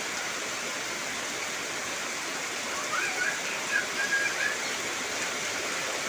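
Heavy rain falling steadily in a continuous hiss. A few short chirping calls come about three to four and a half seconds in.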